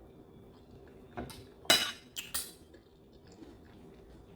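Cutlery clinking against dishware during a meal, with four sharp clinks between about one and two and a half seconds in, the second the loudest.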